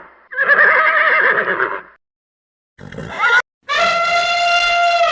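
A horse whinnying, its pitch wavering, for about a second and a half. After a pause comes a short rising call, then a long held steady call that is still sounding at the end.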